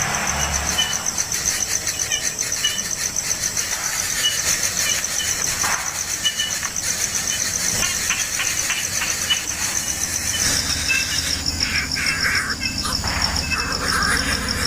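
A steady, high, fast-pulsing insect trill throughout, with short high chirps every second or so. About two-thirds in, rough squealing animal calls join.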